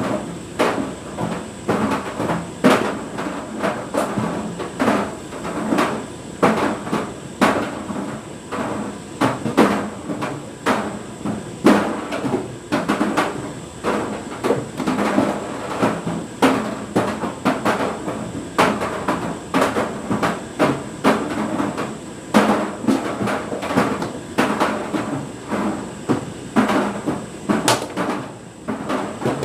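Tumble dryer drum turning with an energy drink can tumbling inside, the can knocking and clattering against the drum over and over, a little more than once a second at uneven intervals.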